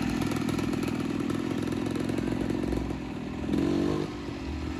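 Motorcycle engine running steadily at low revs, briefly louder about three and a half seconds in.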